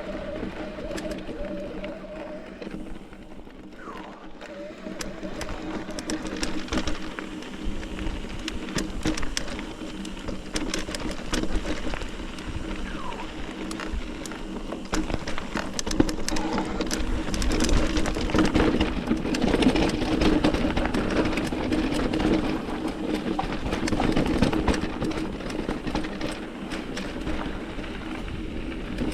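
Mountain bike riding over a rough, rocky trail: tyres rolling on rock, with the chain and frame rattling in many small clicks. It grows louder about halfway through.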